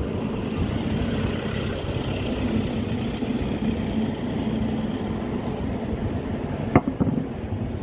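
Motor vehicle engine running steadily, a low rumble with a constant hum. A single sharp knock comes near the end.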